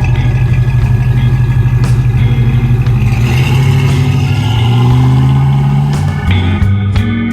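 1969 Chevrolet truck engine running with a fast, even pulse, its speed rising briefly about four to five seconds in before easing off. Music starts near the end.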